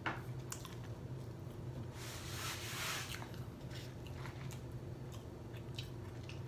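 Close-miked chewing and mouth sounds of a person eating, with scattered small clicks, a sharp click right at the start and a brief rustle about two seconds in, over a steady low hum.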